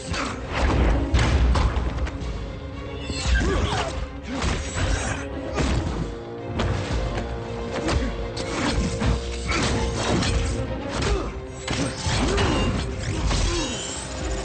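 Film soundtrack: dramatic music under a run of crashes, thuds and shattering impacts.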